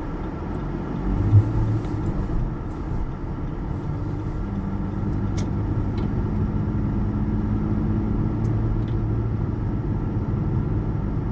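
Car running down the road, heard from inside the cabin: a steady low engine and road rumble with a faint hum, and a few faint ticks.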